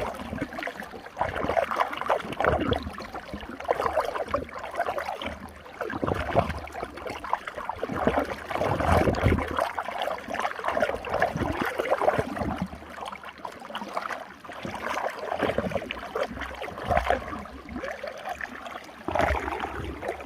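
Running water swirling in a small whirlpool, gurgling and splashing unevenly with frequent irregular surges.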